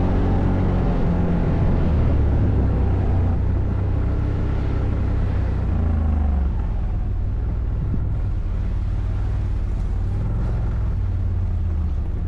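ATV engine running under way, its pitch rising and falling a couple of times in the first half as the throttle changes, then running steadier.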